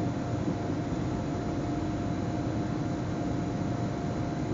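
Steady running noise of an S-Bahn electric train heard from inside the driver's cab while under way: an even rumble and hiss with a faint steady hum.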